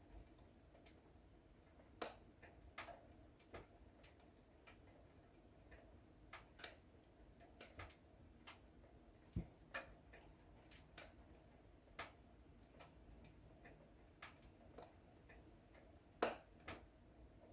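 Wood fire in a fireplace crackling: irregular sharp snaps and pops over a faint background, with a louder pop near the end.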